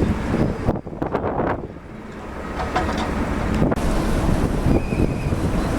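Gusty storm wind buffeting the microphone with a heavy, uneven rumble. It drops away abruptly about a second in and builds back up over the next couple of seconds.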